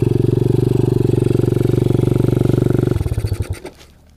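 Kawasaki KLX110 pit bike's single-cylinder four-stroke engine, bored out to 165 and fitted with an FMF exhaust, running steadily, then stumbling and dying about three seconds in. The rider puts the cutting out down to the spark plug cap popping off.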